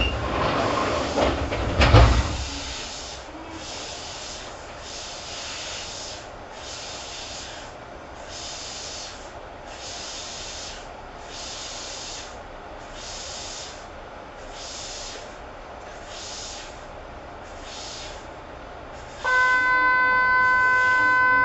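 Running noise inside a Kintetsu 2800 series train. A loud rumble ends in a thump about two seconds in, then a hiss pulses roughly every second and a half. Near the end a steady buzzer tone sounds for about three seconds.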